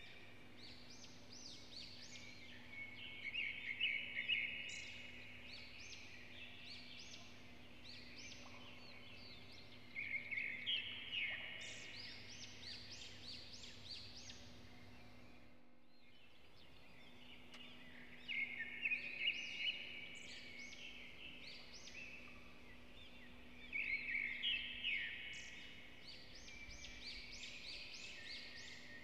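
Birds chirping in four bursts of quick, rising calls a few seconds apart, over a faint steady hum.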